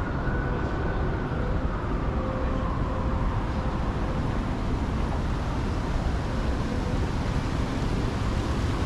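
Steady city street noise with passing traffic, with a faint high tone that rises and falls over the first few seconds.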